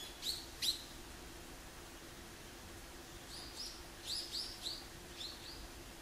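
High, thin bird calls: two sharp notes in the first second, then after a pause a run of about ten quick, short chirps in small groups. A faint steady hum runs underneath.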